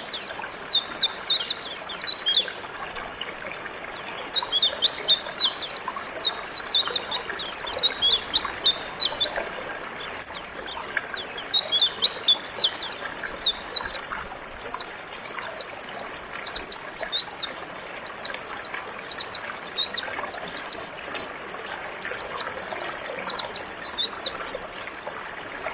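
White-eye (pleci) singing a rapid twittering song of high, quickly falling notes, in bursts of a few seconds, over the steady flow of a river.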